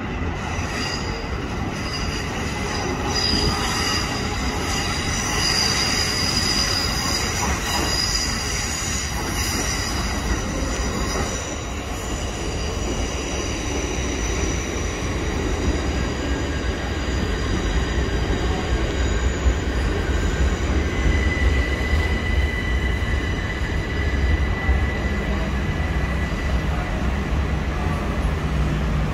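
c2c Class 357 Electrostar electric multiple unit running into the platform, its wheels squealing with high, steady tones. A low rumble of the train builds as it draws alongside, with a lower, steady squeal in the last third.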